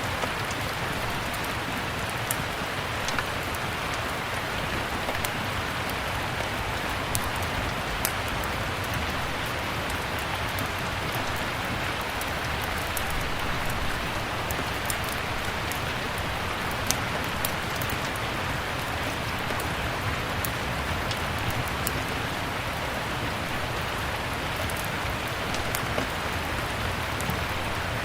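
Steady rain with scattered sharp pops and crackles from a wood fire burning in a fireplace.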